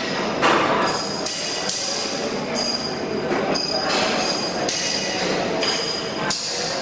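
Repeated metallic clattering with short, high ringing tones, like steel pieces being struck and handled in a welding workshop.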